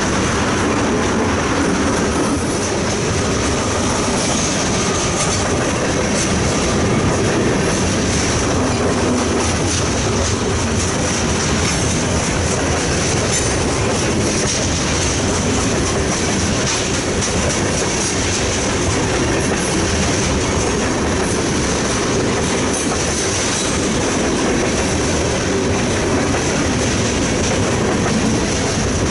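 Freight train cars rolling steadily past at close range: a continuous loud rumble of wheels on rail with faint repeated clicks and a steady high-pitched tone above it.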